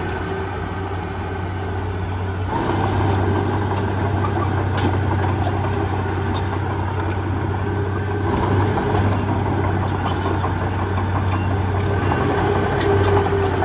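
Heavy diesel engine of earthmoving machinery running steadily with a deep drone, which picks up a little about two and a half seconds in. A few scattered light clicks sound over it.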